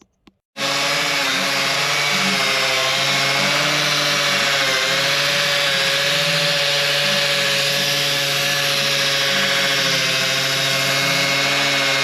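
A power tool's motor running steadily at one slightly wavering pitch, with a sudden start and a sudden stop, as a part is fastened on.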